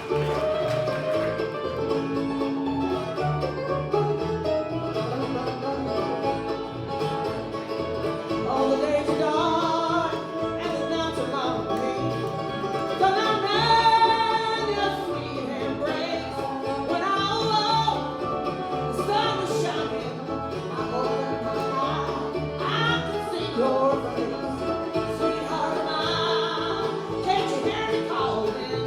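Bluegrass band playing live, with banjo and guitar among the acoustic strings.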